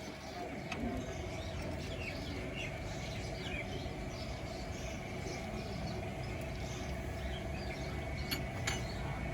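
Small birds chirping in short, repeated calls over a steady low rumble with a faint constant hum.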